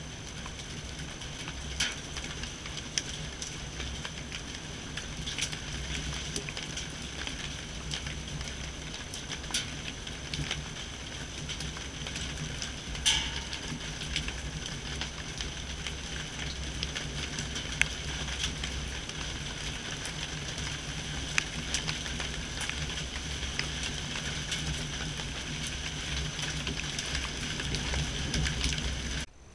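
Steady rain falling, with many scattered sharp ticks of drops striking and a low steady rumble underneath; it cuts off abruptly near the end.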